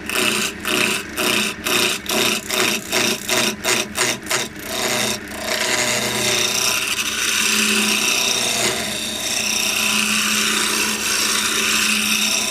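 Lathe tool roughing down a spinning elm blank. The cut comes in evenly spaced pulses, two to three a second, for about five seconds, then turns into a steady, unbroken cutting sound as the blank is roughed round.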